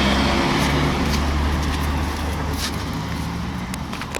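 A motor vehicle's engine passing close by, its steady low hum fading as it moves away.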